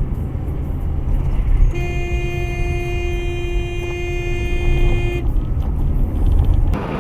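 A car horn sounding one long steady blast of about three and a half seconds, over continuous low road and engine rumble.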